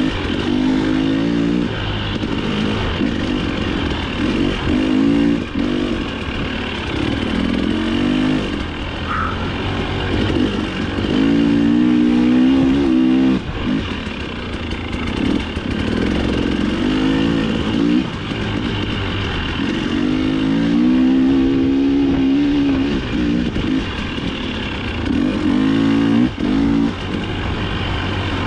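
Dirt bike engine revving up and falling back over and over as the throttle is opened and closed, its pitch climbing and dropping every few seconds with a few short, sharp dips in between.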